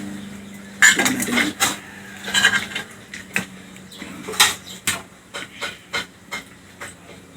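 Cutlery clinking and scraping on a plate and dishes, an irregular string of sharp clicks and clatters, with a faint steady hum in the first half.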